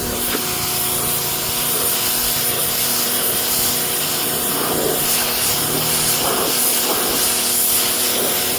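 Electric pressure washer running steadily: its motor pump hums under a loud, continuous hiss of the water jet spraying into car carpet.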